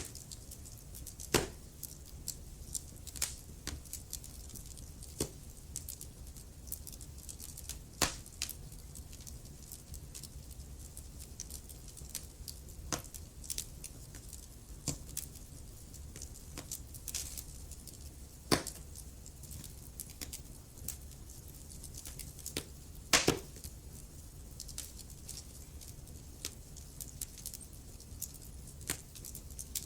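Wood fire crackling in a fireplace: a steady scatter of small snaps and pops, with a handful of louder pops, over a low steady rumble.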